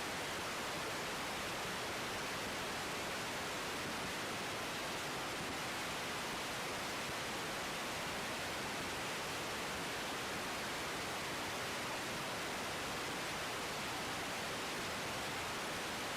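Steady, even hiss of background noise with no engine tone or other distinct event.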